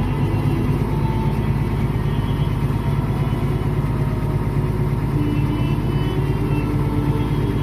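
Agricultural tractor engine running steadily at a constant speed, pretty loud.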